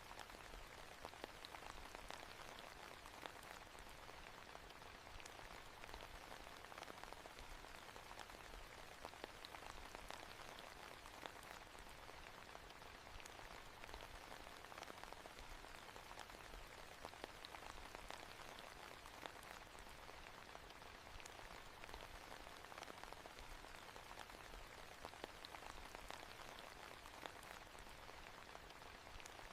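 Steady, quiet rain falling on a surface, with fine scattered drop ticks.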